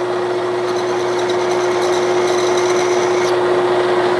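Clausing Colchester 1340 metal lathe running under power with a steady hum. From about half a second in until just past three seconds, a high scratching is heard: a scribe marking a line on the turning workpiece.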